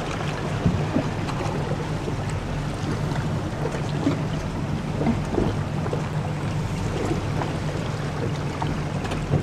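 Tour boat's motor running with a steady low hum, under a wash of water noise and wind on the microphone.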